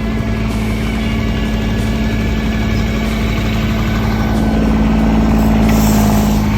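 Tractor engine running steadily, getting a little louder about five seconds in.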